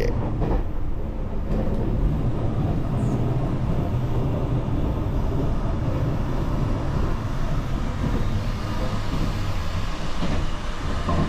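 Steady low rumble of a JR Shikoku 8600 series electric train running, heard from inside the car.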